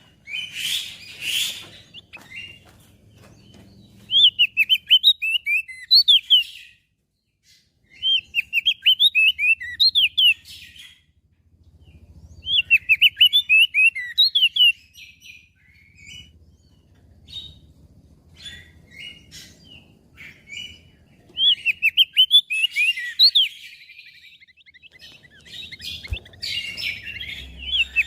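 Crested white-eye (opior jambul) singing: repeated bursts of rapid, high twittering notes, each phrase a couple of seconds long, with short pauses between.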